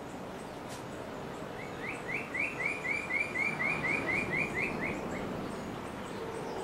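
A bird sings a run of about fourteen short repeated notes, about four a second, starting about a second and a half in. Behind it is a steady low roar, the dawn chorus of distant mantled howler monkeys.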